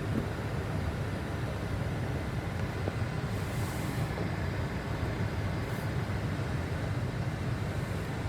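Steady low rumble of a car idling, heard from inside the closed cabin, with a short hiss about three and a half seconds in.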